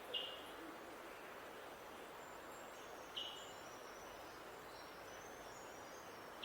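Birds calling over a steady outdoor background: a short, sharp call repeats about every three seconds, with faint, thin, high notes in between.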